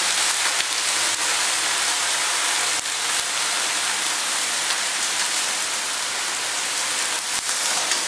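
Freshly added cut vegetables frying in hot oil in a steel karahi on a gas stove: a steady sizzle with faint scattered crackles.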